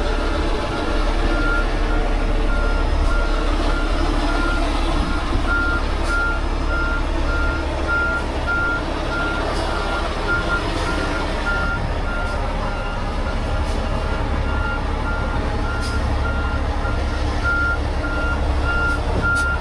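A heavy truck's reversing alarm sounding a steady series of short, evenly spaced beeps at one pitch, over the low, steady running of the truck's engine.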